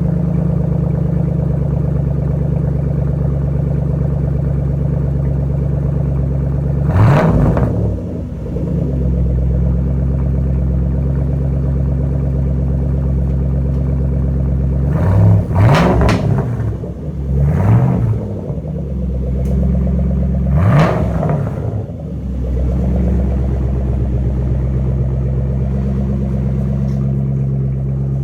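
2011 Shelby GT500's supercharged 5.4-litre V8 idling loudly through a Flowmaster Outlaw exhaust shortly after a cold start, with four quick throttle blips that rise and fall in pitch: one about a quarter of the way in and three close together past the middle.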